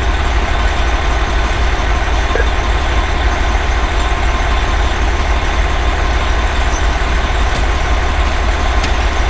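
2010 Pierce Velocity fire engine's 470 hp Detroit Series 60 diesel running steadily, a loud, even, deep engine sound with no siren.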